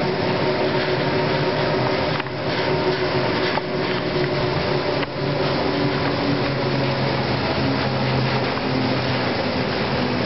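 Aerial cable car's ropes running over a pylon's sheave wheels, a steady humming drone with several held tones that waver slightly, as the cabin draws near the pylon. Wind noise runs underneath.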